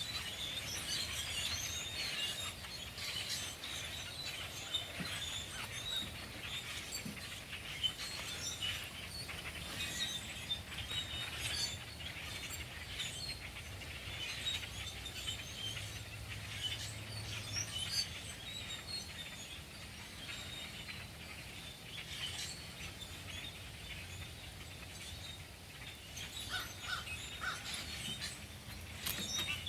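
A large flock of birds chirping and calling all at once, with many short calls overlapping into a continuous chatter.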